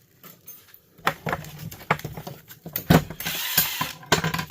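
Small metal and plastic heater parts clattering and knocking as they are handled and sorted, with a brief rustling hiss in the second half.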